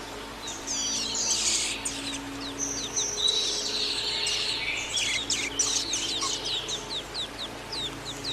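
Songbird singing a rapid, varied song of many short, quickly falling whistled notes and trills, starting about half a second in.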